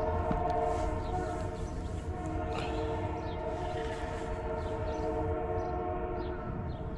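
Passing train with its horn held in a long, steady multi-note chord over a low rumble, stopping near the end.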